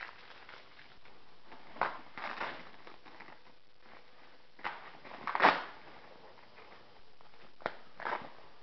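Packaging being handled while a boxed model kit is unpacked: scattered short rustles and knocks, the loudest about five and a half seconds in, with a sharp click shortly before the end.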